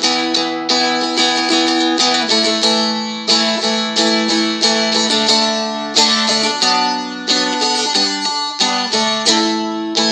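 Seagull Merlin strummed in a steady rhythm of about three strokes a second, playing open and barred chords in D. The chord changes every few seconds.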